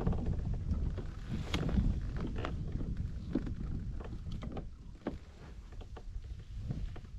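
Small fishing kayak on the water: a low rumble of wind on the microphone, with scattered light knocks and clicks from the hull and fishing gear about once a second.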